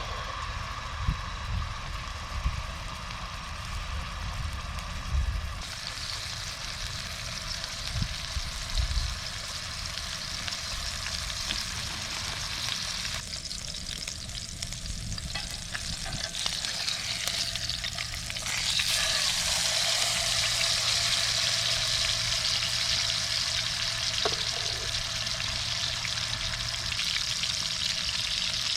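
Food frying in a pan over a campfire, a steady sizzle that gets louder about two-thirds of the way through. A few low thumps come in the first seconds.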